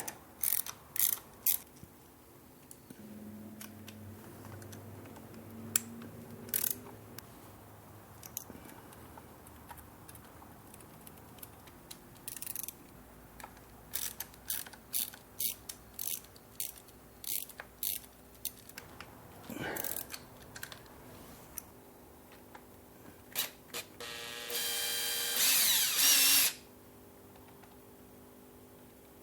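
Hand ratchet with a Torx T30 bit clicking in short runs while bolts on the engine's PCV valve housing are undone, then a cordless drill/driver whirring for about two seconds near the end, the loudest sound.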